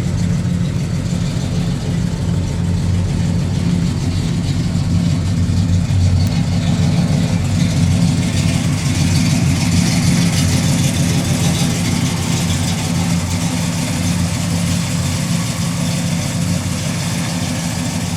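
Chevrolet 396 big-block V8 in a 1966 Chevelle SS idling steadily, heard through its exhaust pipes.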